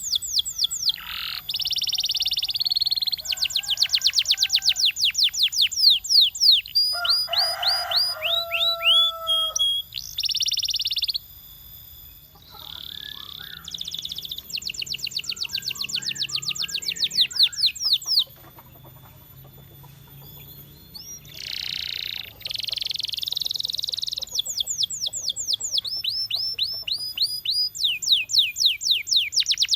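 Male canary singing: fast trills of rapidly repeated sweeping notes alternating with buzzy rolls, with two short quieter pauses partway through.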